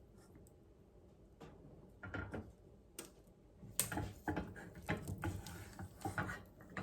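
Spatula stirring and scraping thick melted chocolate, butter and cocoa in a pot, with irregular scrapes and taps against the pot. They begin about two seconds in and come thicker in the second half.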